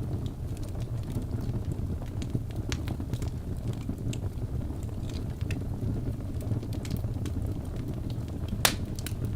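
Logs burning in a fireplace: a steady low rumble of flame with scattered crackles and pops, the sharpest pop near the end.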